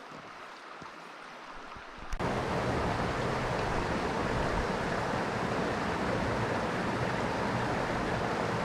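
Steady rushing of stream water, faint at first and then starting abruptly much louder about two seconds in.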